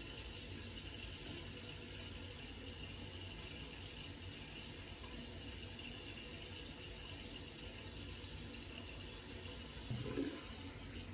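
Bathroom sink tap running steadily with a faint, even hiss of water, briefly louder near the end.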